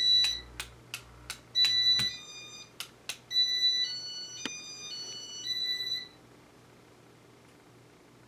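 Sharp clicks of buttons pressed on a Casablanca IntelliTouch control, answered by the 1986 Casablanca Four Seasons ceiling fan's piezo beeper: two single beeps, then a run of beeps stepping between several pitches as the first-generation (RMM1) IntelliTouch board plays its demo. It stops about six seconds in.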